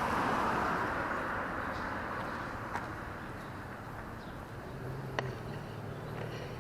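Street traffic: a car passes at the start, its tyre and engine noise swelling and then fading. A low engine hum from another vehicle comes in about five seconds in, with a couple of sharp clicks along the way.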